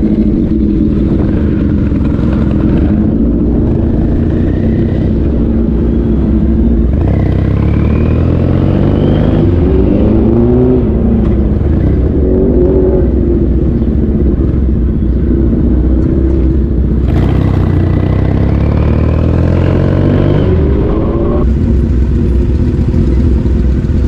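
Motorcycle being ridden on the road: heavy wind and road rush on the microphone, with the motor's pitch rising as it accelerates and falling again, twice, once about a third of the way in and again past the middle.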